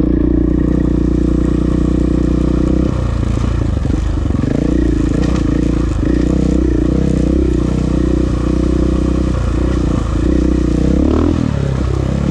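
KTM motorcycle engine running on a rocky dirt trail. It runs steadily at first; from about three seconds in, its pitch dips and rises again and again as the throttle is rolled off and on.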